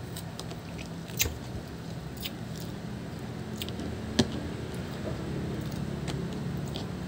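Close-up chewing and biting as someone eats pomelo pulp, soft and wet, with two sharp clicks about a second in and about four seconds in.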